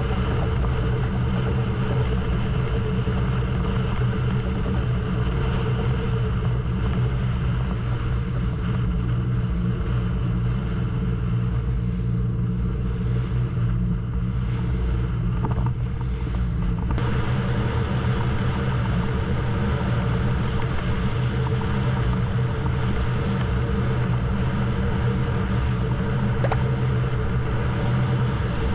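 Crew transfer boat's engine running steadily, a constant low hum, with more hiss after about seventeen seconds.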